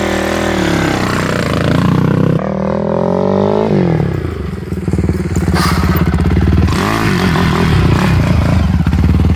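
A 125 cc single-cylinder mini bike engine revving. Its pitch climbs for about a second, drops sharply about four seconds in, then runs fairly steadily with a brief dip and rise near seven seconds.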